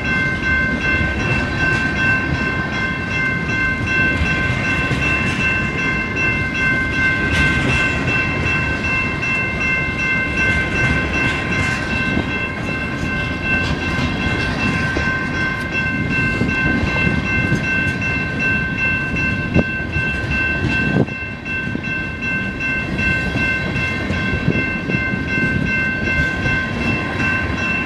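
Empty coal hopper cars of a freight train rolling past close by, with rumbling and wheel clatter. A steady high-pitched squeal rings over it without a break.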